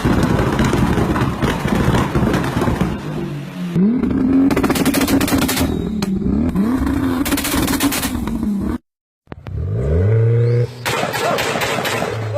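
Car engine revving repeatedly, its pitch rising and falling, with rapid crackling pops from the exhaust. The sound cuts out briefly about nine seconds in, then the engine revs up again and holds.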